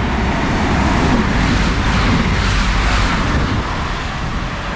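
Grand Central Class 180 diesel multiple unit passing through the station without stopping: a loud rush of wheels on rail and air that builds to a peak a second or two in and then eases off.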